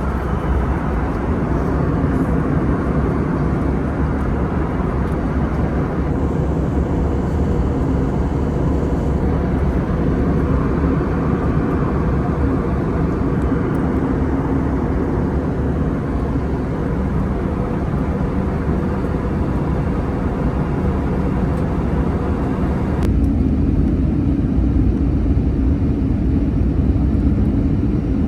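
Airbus A320 cabin noise on approach: a steady rumble of engines and airflow heard from a forward window seat. About 23 seconds in it changes abruptly to a deeper, slightly louder rumble with less hiss.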